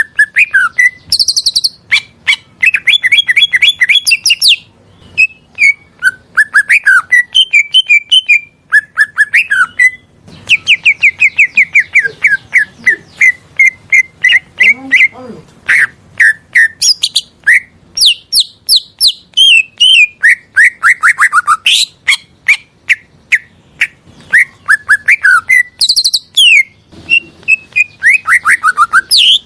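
Green leafbird (cucak ijo) singing loudly and almost without pause: runs of rapid chirps and trills, with quick whistled notes sliding up and down and brief gaps between phrases.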